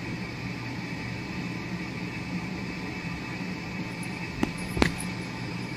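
Steady background hum and hiss, with two sharp knocks close together near the end, the second louder.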